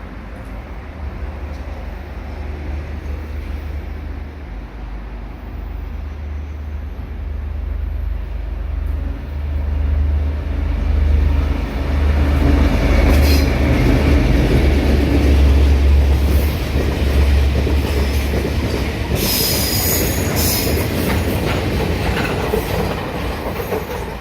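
A freight train passes through the station. Its deep rumble grows over the first half, is loudest in the middle and then slowly fades, with wheel clatter and a burst of sharp high-pitched noise about twenty seconds in.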